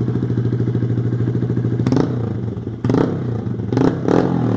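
Honda Grom's 125cc single-cylinder engine running through a titanium exhaust with the baffle removed. It idles steadily, then from about two seconds in gives several short, sharp throttle blips.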